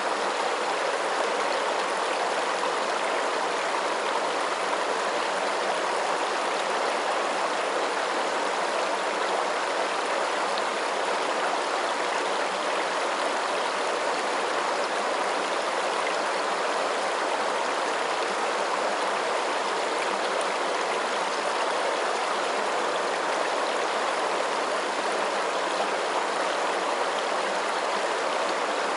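Running water, a steady, even rush with no pauses or changes.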